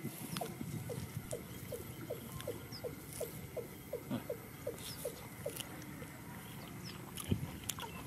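A bird calling nearby: a run of about fifteen short notes, each falling in pitch, about three a second, which stops about five seconds in. Faint high chirps of small birds sound now and then, and there are a couple of sharp clicks near the end.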